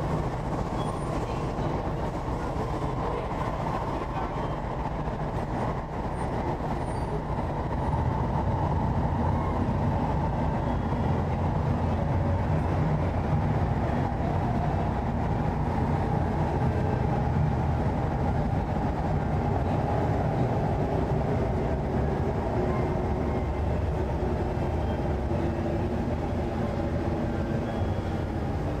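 Running noise inside a Korean-built MTR East Rail Line train between stations: a steady rumble of wheels and traction equipment with a faint whine. It grows louder about eight seconds in.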